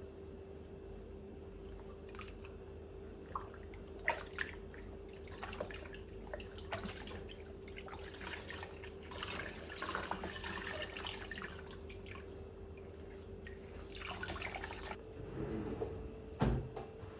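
Water from a tap running in short spells, with drips and small clicks and knocks of things being handled at a sink, over a steady hum.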